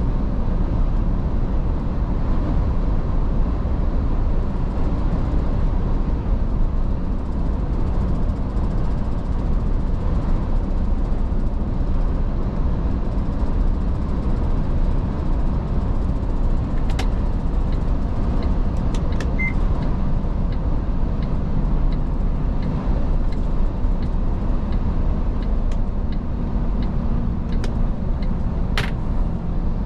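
Iveco S-Way truck driving along at steady speed: a continuous low engine drone and road rumble, with a few light clicks in the second half.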